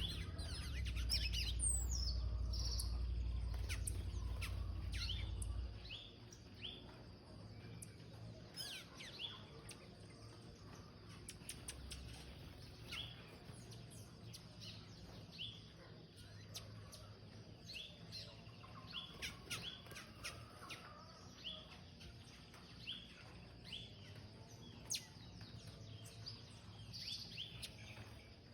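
Small pet birds chirping, short high chirps repeated again and again. A loud low rumble runs underneath for the first six seconds, then stops.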